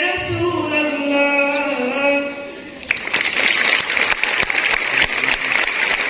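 A girl's solo voice sings the last held phrase of a devotional nasheed, ending about two seconds in. About a second later an audience breaks into sustained applause.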